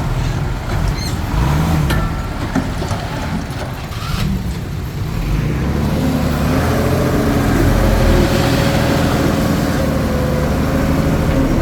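Diesel engine of a Komatsu D21P bulldozer working, its pitch rising and falling in the first few seconds, then running steadily under load with a thin whine joining about six seconds in.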